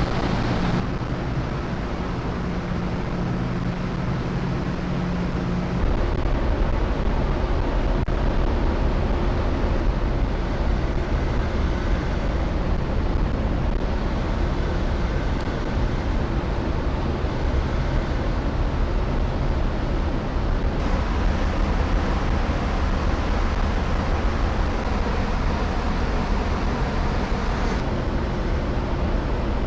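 Steady low drone of a car ferry's engines with rushing wind and sea noise; the low rumble grows heavier about six seconds in.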